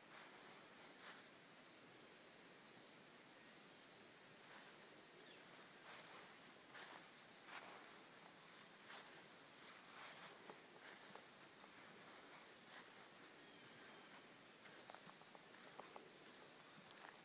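Steady high-pitched chorus of insects trilling, faint, with a few faint scattered clicks.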